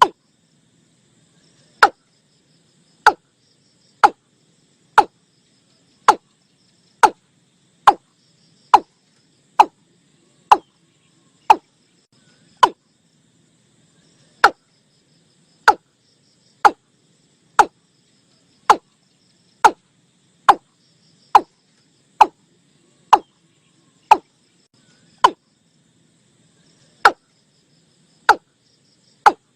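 Watercock calls played back as a lure through a Bluetooth speaker: short, sharp notes that fall steeply in pitch, repeated about once a second with a couple of brief pauses, over a faint steady background.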